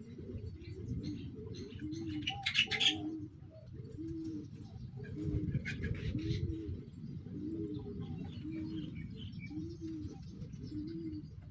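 A dove cooing over and over, short soft coos about one a second. Brief higher chirps come in twice along the way, over a low rumble.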